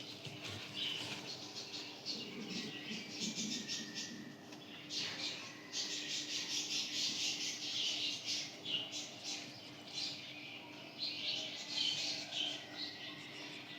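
Marker squeaking on a whiteboard in many short strokes as figures are written.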